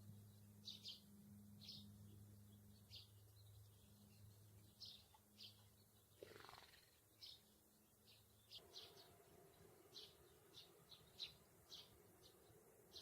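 Faint bird chirps: short high chirps repeating every half second or so over a low steady hum, in an otherwise near-silent room.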